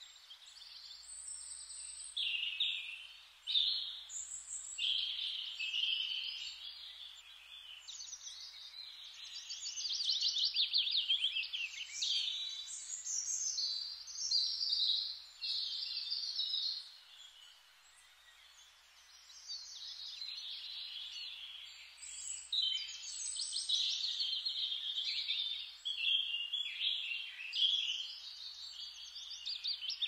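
Songbirds chirping and singing almost without pause, with fast trilling phrases, and a short lull a little past the middle.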